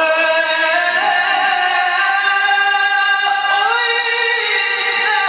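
A Qur'an reciter's voice drawing out a long melodic line, holding sustained notes with small ornamental turns in pitch.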